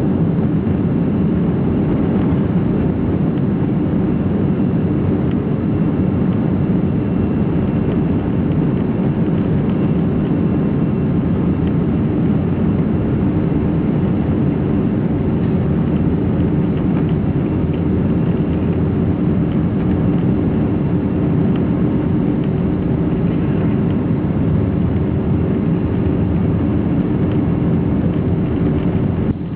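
Airbus A320 jet engines running at takeoff power: a loud, steady, low noise that keeps an even level, with a faint thin whine above it.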